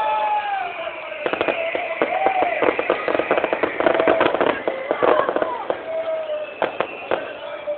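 Bonfire crackling and popping, a dense run of sharp cracks over distant voices.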